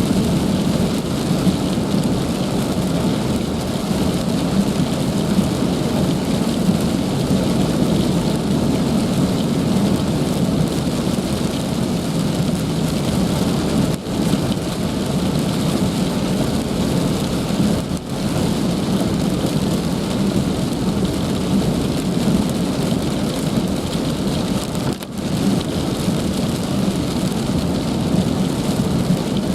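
Heavy rain falling steadily, a dense, even hiss with a strong low rumble underneath.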